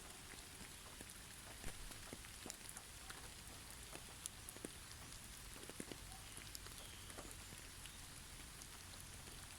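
Heavy snowfall on snow-covered trees: a faint, steady hiss with many small, scattered ticks and patters of snow landing on branches.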